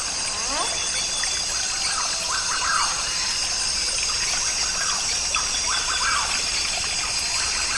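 Rainforest ambience recording: a steady rush of running water under a high, even insect drone, with bird calls about once a second, each sliding down in pitch.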